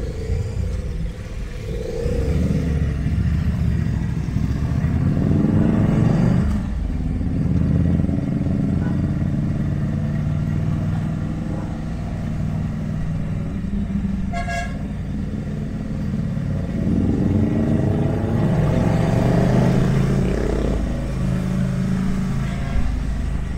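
Ducati Monster 797+'s air-cooled L-twin engine under way, its pitch rising as it accelerates about five seconds in and again near the end. A short horn beep sounds about fourteen seconds in.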